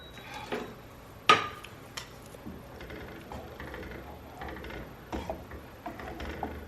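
Kitchenware clinking: one sharp clink of metal or glass about a second in, then lighter knocks and taps scattered through the rest.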